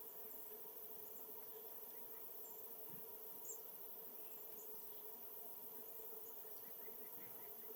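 Faint outdoor ambience of small birds chirping thinly over a steady hiss. The clearest chirp comes about three and a half seconds in, and a quick run of short notes near the end.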